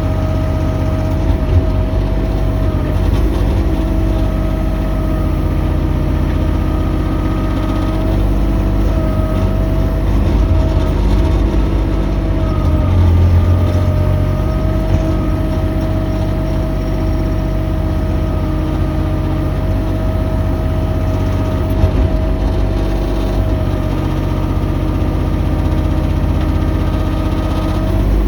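Mini excavator running steadily, a low engine hum with a high whine held over it.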